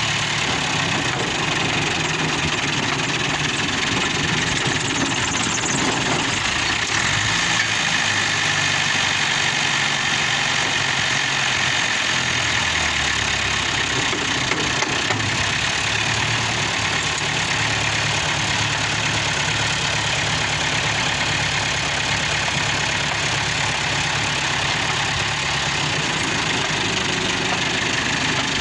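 New Holland 640 tractor's diesel engine running steadily. Its low note shifts a few times in the middle stretch.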